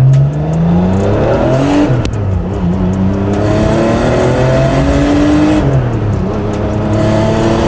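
1986 Porsche 930 Turbo's air-cooled turbocharged flat-six, fitted with a bigger single turbo and a free-flowing exhaust, at full throttle, heard from inside the car. The revs climb, drop back at an upshift about two seconds in, climb again, and drop at a second upshift near six seconds before rising once more.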